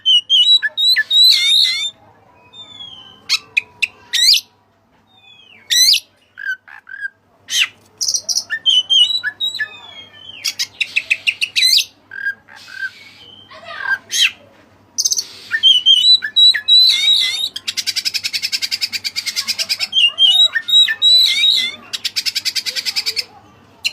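Oriental magpie-robin (kacer) singing: a varied run of sharp whistles, quick chattering notes and pitch glides, with two long harsh buzzing rattles in the second half.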